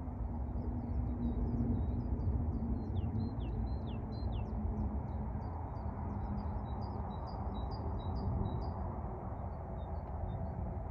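Small birds chirping rapidly, with a few quick downward-sliding notes a few seconds in and the busiest twittering in the middle, over a steady low rumble.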